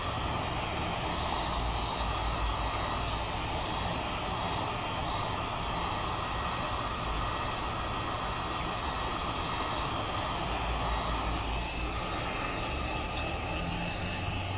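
Heat gun blowing steadily, heating the phone's screen to soften the glue under the glass. The blowing changes a little in tone near the end.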